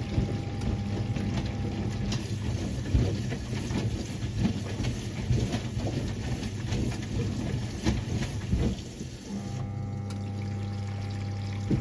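1978 Siemens WA4600 washing machine in its wash cycle: water sloshing and splashing irregularly with soft knocks of wet laundry in the drum, then the drum motor's steady hum starts again about nine seconds in.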